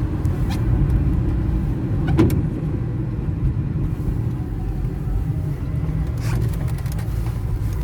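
Car running: a steady low engine and road rumble, with a few short knocks, the loudest about two seconds in.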